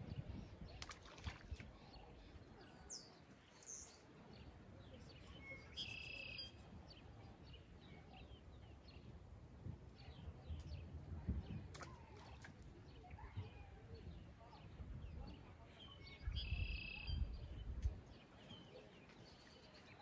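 Faint outdoor ambience of wild birds calling: scattered short chirps and whistles, with the clearest calls about six seconds in and again near the end, over a low rumble that swells at times.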